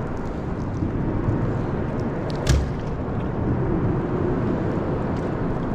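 One sharp knock about two and a half seconds in, over steady low rumbling background noise.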